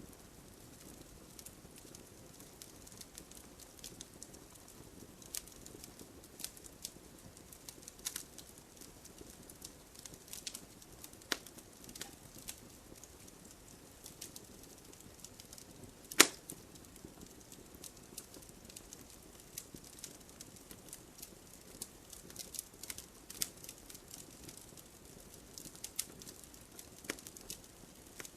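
Wood fire crackling in a fireplace: irregular sharp pops and snaps over a soft low hiss, with one louder pop about halfway through.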